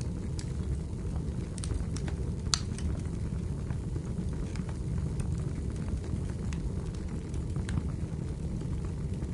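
Wood fire burning in a fireplace: a steady low rumble with scattered crackles and pops, the loudest pop about two and a half seconds in.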